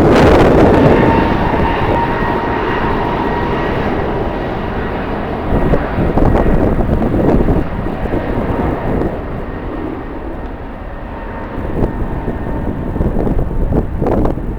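Jet airliner engines, a steady whine over a wide rush that fades through the first half, mixed with strong wind buffeting the microphone in uneven gusts.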